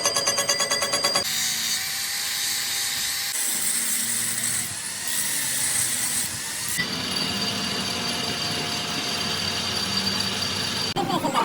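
Workshop power-tool and machining noise, a steady whine and hiss with high tones that changes abruptly several times, as one short clip cuts to the next.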